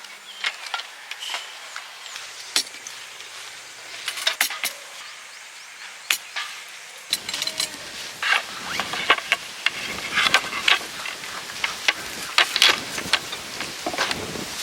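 Irregular clicks, clinks and knocks of things being handled. They come thicker from about halfway through, with a rough low rumble under them.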